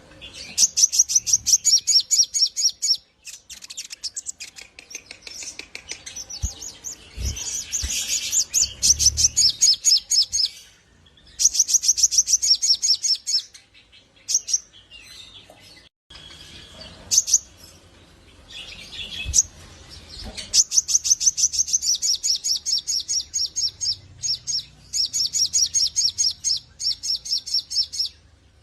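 Brown-throated sunbird (sogok ontong) in full song, giving fast trilled phrases of sharp high notes, each a second or two long, with short pauses between them. A few soft low knocks come in around the middle.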